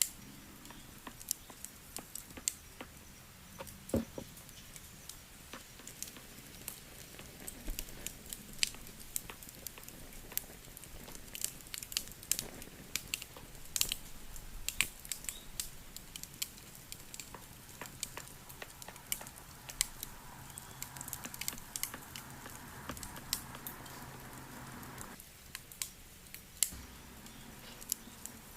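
Wood fire crackling, with irregular sharp pops and snaps over a low steady hiss. A steady hum comes in about two-thirds of the way through and cuts off suddenly a few seconds before the end.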